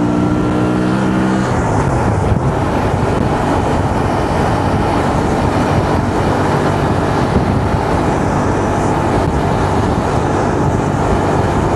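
Honda Transalp motorcycle engine running under way, its pitch dropping about a second and a half in as the bike slows. After that a steady rush of wind and road noise mostly covers it.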